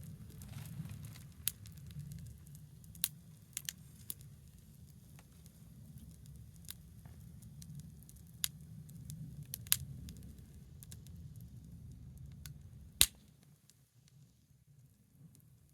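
Small wood fire crackling: sharp pops and snaps of burning wood every second or so over a low steady rumble. The loudest pop comes near the end, after which the rumble drops away.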